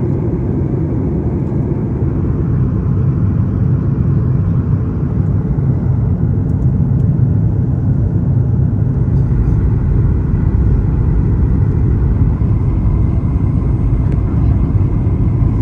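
Aircraft cabin noise during landing: a steady low rumble that holds even throughout.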